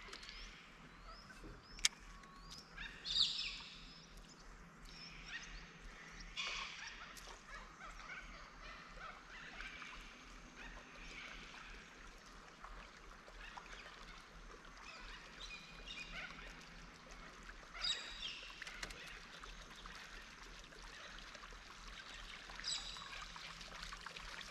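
Birds chirping and calling on and off in short, gliding phrases, with a sharp click about two seconds in and a faint steady low hum underneath.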